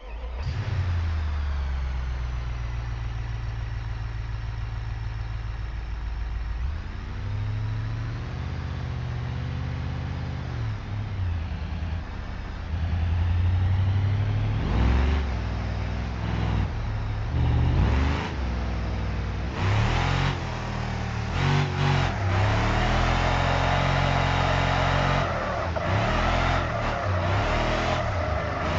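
LS1 V8 engine in a Ford F-150 truck, coming in abruptly and settling to a steady run over the first few seconds. It is then revved repeatedly, with quick throttle blips in the middle and a louder, higher run held near the end.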